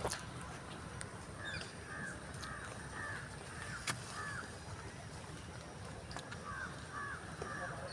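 A bird calling in two quick runs of short, arched calls, about seven in the first run and four in the second, over a steady low background hum. A few sharp clicks sound in between.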